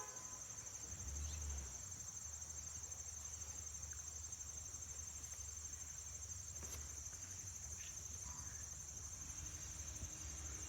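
Steady chorus of crickets trilling continuously at a high pitch, with a faint low rumble underneath.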